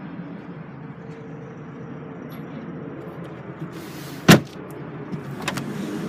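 A tailgate shutting with one loud thud about four seconds in, followed a second later by a couple of lighter clicks, over a steady low hum.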